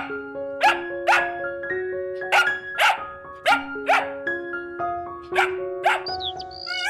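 A dog barking about ten times, short sharp barks mostly in pairs, over a light background melody.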